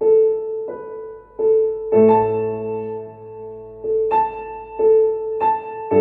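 Piano playing slowly and gently: one middle note struck again and again, roughly every half second to a second, each ringing and fading, with low chords joining about two seconds in and again near the end.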